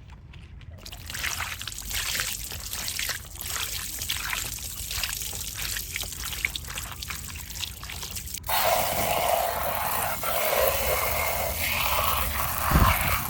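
Water trickling and splashing over a small model car being washed, turning abruptly into a louder, steadier rush of water about eight and a half seconds in.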